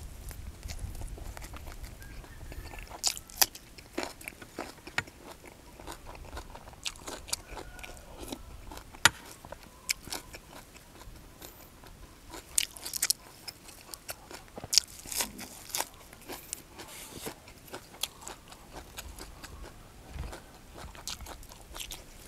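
A person eating close to the microphone: wet chewing and irregular crisp crunches and clicks of raw leafy vegetables and fish laab.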